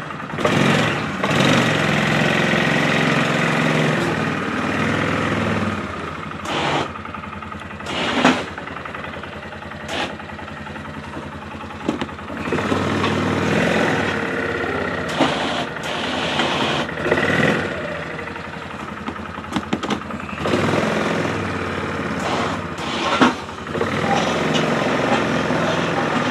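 ATV engine running while plowing slush, rising and falling in loudness, with a few short sharp knocks along the way.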